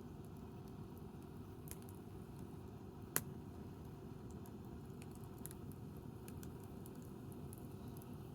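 Wood campfire burning with faint, scattered crackles and one sharp pop about three seconds in, over a steady low background noise.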